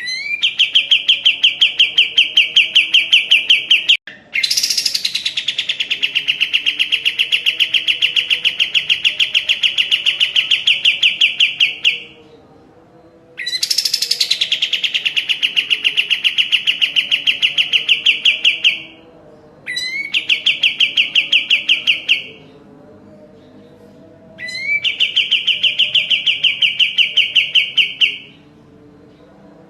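Kapas tembak songbird singing in long, rapid trills of high notes, each phrase several seconds long and opening with a short rising note. There are five phrases with brief pauses between them.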